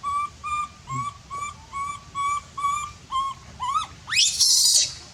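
A baby monkey calling: a quick run of short, high, even-pitched cries, about two or three a second, that turn into rising calls and end in one loud, harsh scream near the end.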